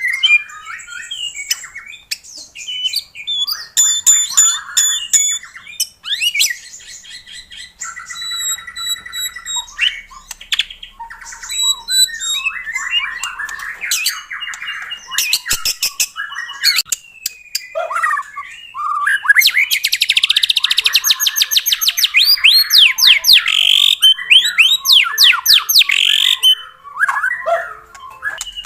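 White-rumped shama in full song: a varied run of whistles, chatters and buzzy trills, with a long stretch of fast, repeated sweeping notes in the last third.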